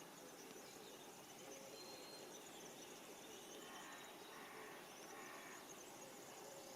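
Faint outdoor ambience with a steady low hiss and scattered distant bird chirps and insect calls, a short run of calls about four seconds in.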